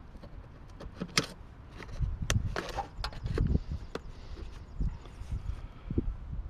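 Hand dismantling of a water cooler's metal parts and tubing: scattered sharp clicks and light knocks, with low thumps in between.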